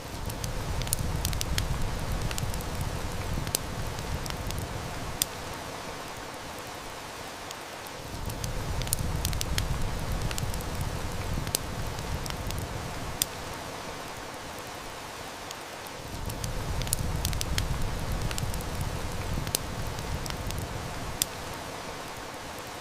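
Steady heavy-rain hiss mixed with sharp snaps and crackles of a wood fire. A low rumble swells up and dies away roughly every eight seconds.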